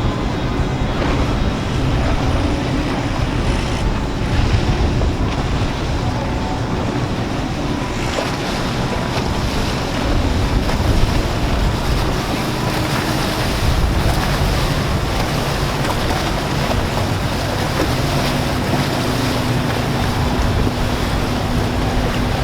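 Motorboat engines running over wash of waves and churning water, with wind buffeting the microphone: a steady, loud roar with a deep rumble.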